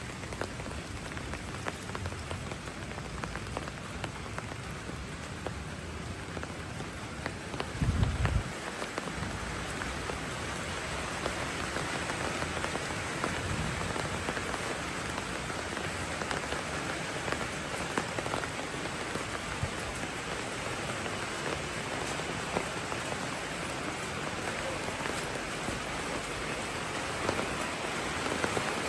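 Steady rainfall, a dense even hiss of drops hitting the ground and surfaces, with many small pattering drops. About eight seconds in there is a brief low thump, the loudest moment.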